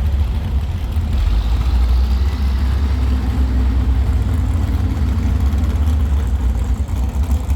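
Steady low rumble of vehicle engines idling.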